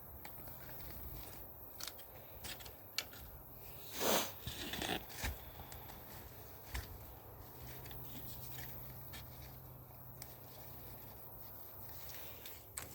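Faint scattered scrapes, crackles and rustles of hands digging through garden soil to unearth potatoes, with one louder rustle about four seconds in.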